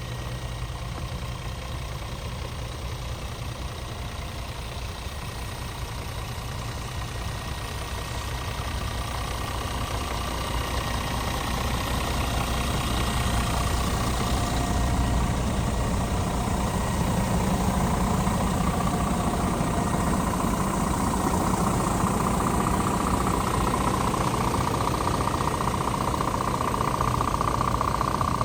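Scania R450 truck's 13-litre six-cylinder diesel running, with its sound growing louder about ten seconds in as a steady whine joins it and strengthens toward the end.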